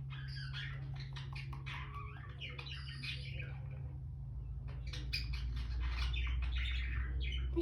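Indian ringneck parrots chattering softly to each other in quick, short chirps and clicks, in two runs with a brief lull halfway. A steady low hum runs underneath.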